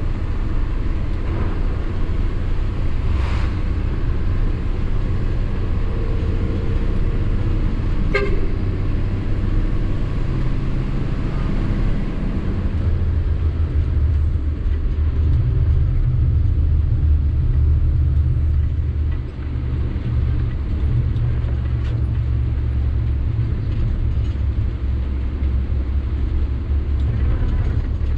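Sany 6x4 dump truck's diesel engine running under way, heard as a steady low drone with road noise, dipping briefly about two-thirds of the way through. A couple of short sharp knocks are heard in the first third.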